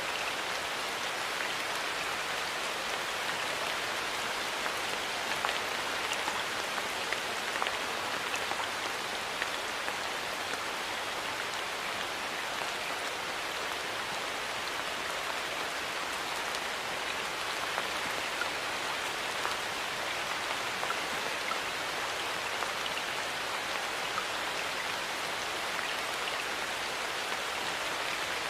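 Steady rain falling, an even patter with scattered individual drops ticking on surfaces.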